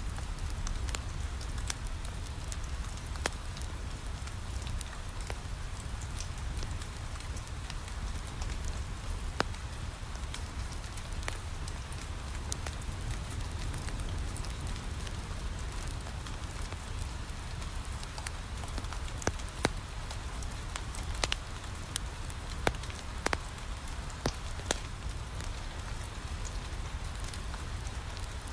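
Steady rain falling on a window over a low rumble, with scattered sharp pops and crackles from a wood fire in a fireplace, a few louder ones in the second half.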